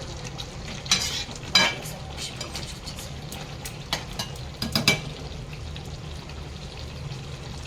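Chicken and potato curry frying in a kadhai while being stirred with a spatula: a steady sizzle with several sharp scrapes and clinks of the spatula against the pan, over a low steady hum.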